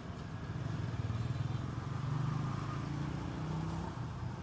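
A motor vehicle's engine passing by, its drone growing louder through the middle and easing off toward the end.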